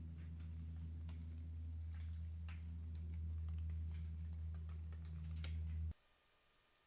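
Steady high-pitched insect trill, summer cricket-type chorus, over a low steady hum. It cuts off abruptly about six seconds in.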